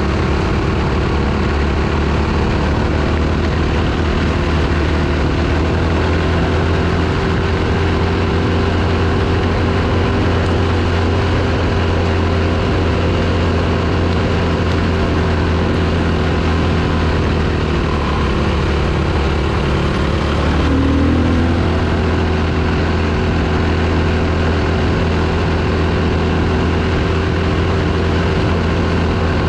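Dirt bike engine running at a fairly steady speed, with a brief shift in pitch about two-thirds of the way through.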